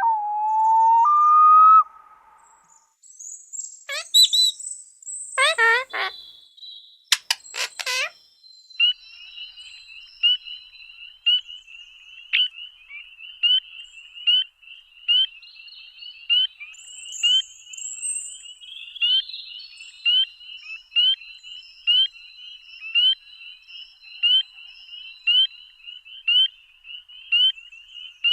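Wild birds calling: a whistled note that steps up in pitch in the first two seconds, a few fast sweeping calls about four to eight seconds in, then a steady high trill with a sharper chirp about once a second.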